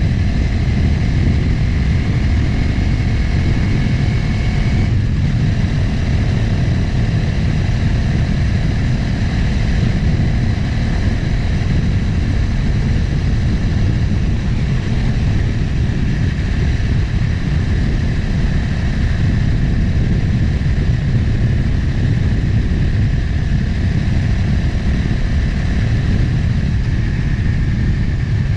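Motorcycle engine running steadily at cruising speed, with heavy wind rumble on the action-camera microphone.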